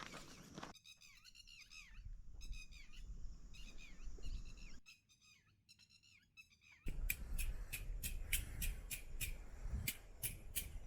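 Wild birds singing, short chirping phrases repeated again and again. About seven seconds in it changes abruptly to rustling with a run of sharp clicks and snaps.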